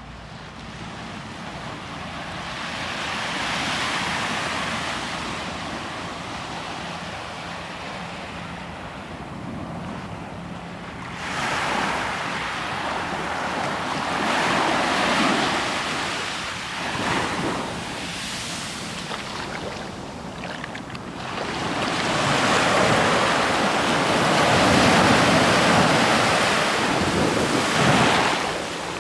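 Ocean surf on the beach: waves breaking and washing in, swelling and fading three times, loudest near the end.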